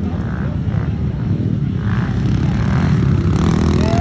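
Several pit bike engines running hard during a race, a dense, steady drone that gets louder and brighter about three seconds in as a bike comes closer.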